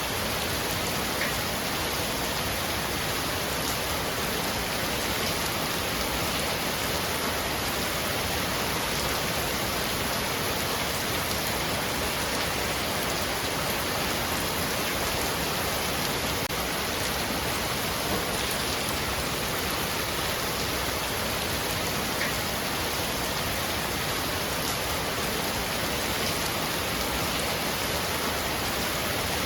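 Heavy rain falling steadily on a roof: a dense, even hiss with a couple of separate drops ticking out of it.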